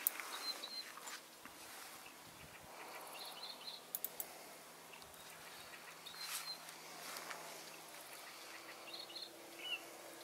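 Small birds chirping now and then, short high chirps every few seconds over quiet outdoor ambience. A couple of sharp clicks come at the start and about four seconds in.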